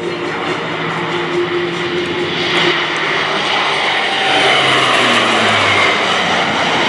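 Lockheed Martin AC-130J Ghostrider gunship's four turboprop engines and propellers on a low flyby, swelling from about two and a half seconds in and loudest around five seconds. The engine whine falls in pitch as the aircraft goes past.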